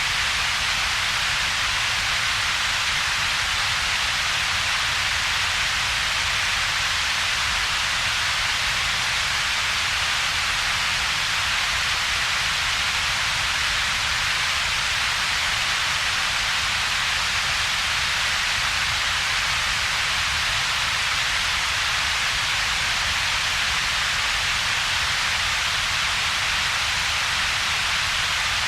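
Steady synthetic double-peaked noise: a constant hiss concentrated in the upper-middle range, with a second, weaker band of low rumble and a gap between the two. It does not change.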